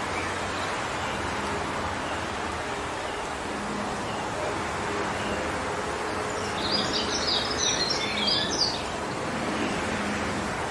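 Wind blowing steadily through forest trees, with a brief flurry of high bird chirps about two-thirds of the way in.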